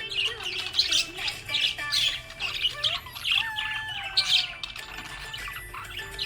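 Budgie chirping and warbling: a stream of short, high chirps and squawks several times a second, mixed with lower whistled glides.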